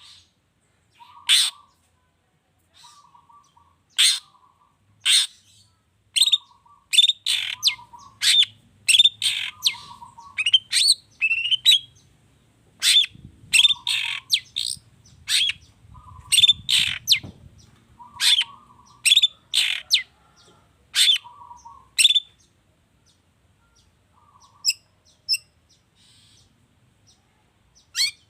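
Long-tailed shrike (cendet) singing: a rapid string of short, sharp, harsh call notes and chatter, mixing in notes mimicked from other birds. The notes crowd together in the middle, and the song pauses with only a few faint notes near the end.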